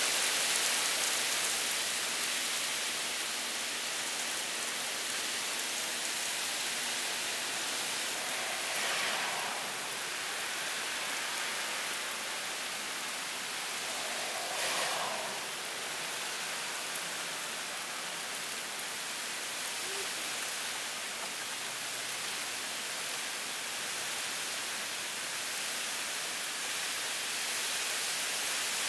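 Heavy rain pouring down in a steady hiss, with two brief louder swells about a third and half of the way through.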